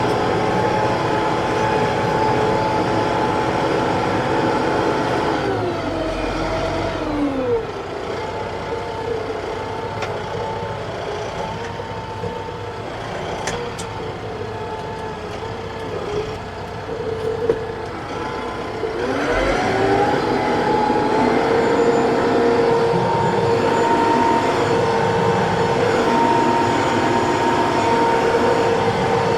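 TYM T654 tractor's diesel engine running at working speed, throttled down about six seconds in, running lower for some twelve seconds, then revved back up.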